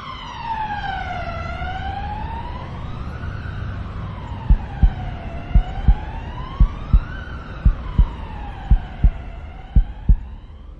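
Emergency-vehicle siren wailing, its pitch sliding slowly down and up about once every four seconds, over a low rumble. About four seconds in, a heartbeat sound effect joins it: paired low thumps about once a second.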